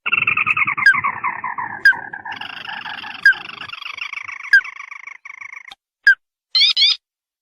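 Recorded lure call of the ruddy-breasted crake (tikusan merah): a fast trill that slides down in pitch, then a long steady trill punctuated by sharp notes about once a second, and a brief burst of rising chirps near the end.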